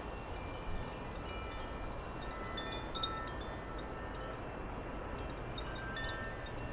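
Wind chimes ringing, several tones at different pitches sounding irregularly and overlapping, over a steady low wind rumble.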